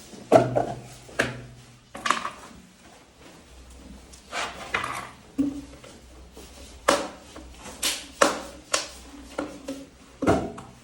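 Irregular knocks and clunks, about ten of them spread over several seconds, each ringing briefly, as objects are handled and set down.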